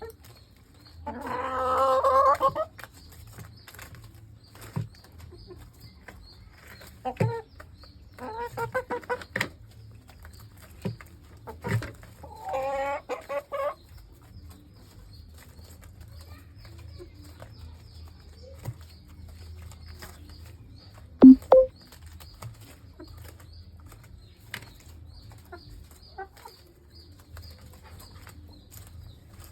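Laying hens clucking in three drawn-out bouts of calls, the loudest near the start, with scattered light taps and one sharp tap about 21 seconds in, over a low steady hum.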